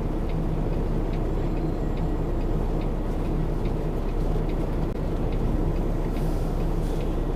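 Peterbilt 579 semi truck's diesel engine running steadily at low speed during a slow reverse maneuver, with a faint regular ticking over it.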